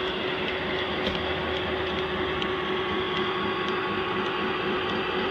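Lionel F7 model diesel locomotives running on three-rail O-gauge track: a steady running hum with faint regular clicks of the wheels over the rail joints, about two a second.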